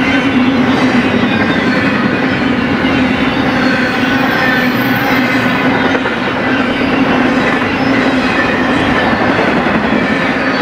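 BNSF freight train cars rolling past on the rails: a loud, steady rumble and rattle of steel wheels on track, with a steady low hum underneath.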